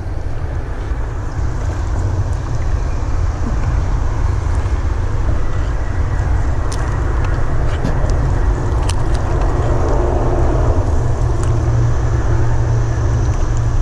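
Wind buffeting the microphone: a loud, steady low rumble with a rushing hiss above it.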